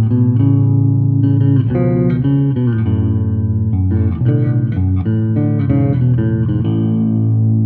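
Five-string bass guitar played solo, plucking chords and a melody together. Near the end a chord is left ringing.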